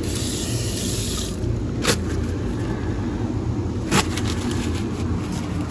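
Coffee running from a self-serve dispenser into a cup as a hiss for about the first second and a half, then two sharp clicks, over a low steady hum.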